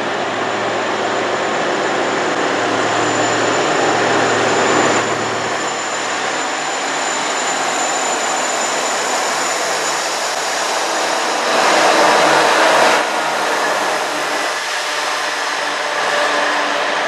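Freight train rolling past close by, a steady rumble of wheels and cars on the rails, with a CN diesel locomotive going by partway through. A thin high whine runs under the first half, and about twelve seconds in the noise swells louder for about a second.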